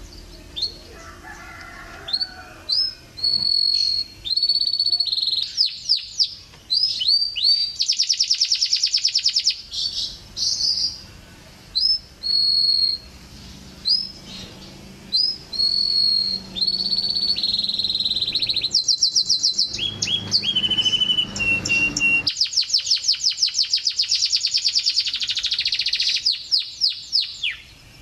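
Canary singing: a run of clear whistled notes and quick glides, broken by long, very fast trills, one a little after the start and a longer one in the second half.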